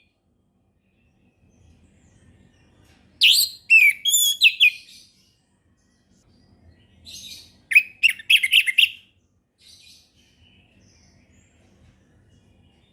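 Orange-headed thrush singing: two phrases of quick, varied whistled notes, each about two seconds long, one a few seconds in and one near the middle, with a few faint notes after.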